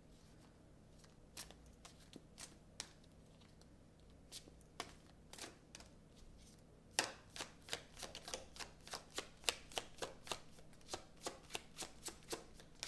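Tarot deck being shuffled by hand: a few scattered card clicks at first, then from about halfway a steady run of quick card slaps, roughly three or four a second.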